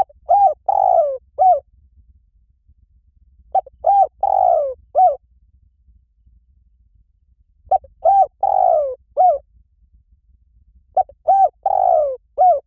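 Spotted dove song: four matching cooing phrases, about four seconds apart. Each phrase is a couple of short hoots, then a longer falling coo, then a final short hoot.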